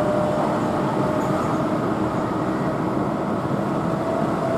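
Keihan electric train running at speed, heard from inside the passenger car: a steady running rumble with a faint, even whine.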